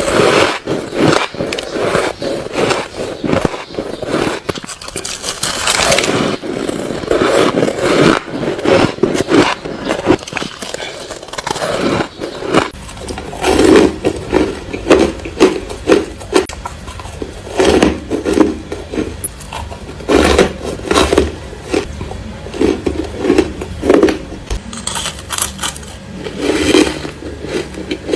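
Close-miked biting and chewing of ice: continuous crunching and crackling with many sharp cracks, settling in the second half into a steady rhythm of chewing crunches.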